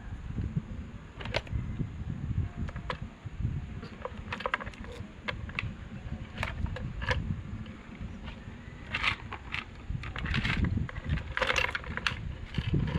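Small parts and tools being handled during electric fan repair: scattered light clicks and taps, thicker near the end, over a low rumble.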